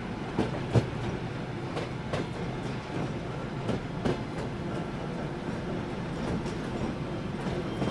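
Sleeper train carriage running on the track: a steady rumble with scattered sharp clicks of the wheels over rail joints, the loudest about a second in.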